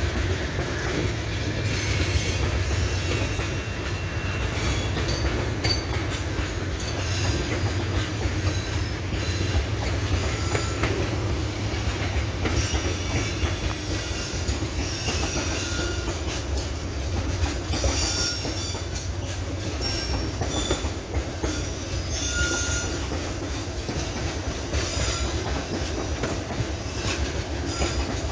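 Sand-laden freight train's wagons rolling steadily past: a continuous low rumble of wheels on rail, with short high-pitched wheel squeals here and there.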